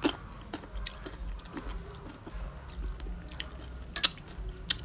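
Close chewing of a mouthful of oyster, with wet mouth sounds and small clicks. Near the end come two sharp clicks as a spoon knocks against a glass of chili sauce.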